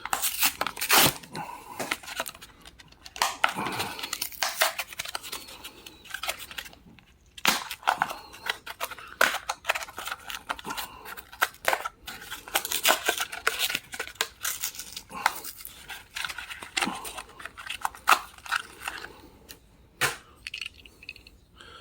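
A Matchbox die-cast car's blister-card package being opened by hand: cardboard tearing and plastic packaging crinkling in irregular bursts, with short clicks and pauses.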